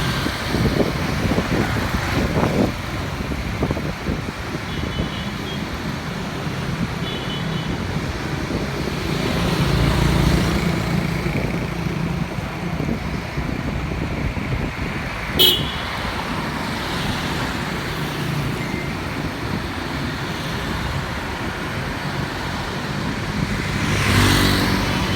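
Road traffic heard from a moving motorbike: steady engine and road noise, with short horn beeps about five and seven seconds in and louder vehicles passing around ten seconds and near the end.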